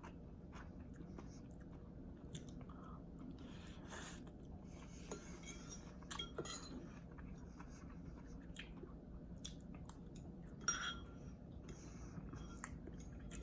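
Quiet chewing of pancit bihon rice noodles, with scattered short clicks and clinks of utensils and dishes; one louder clink about eleven seconds in.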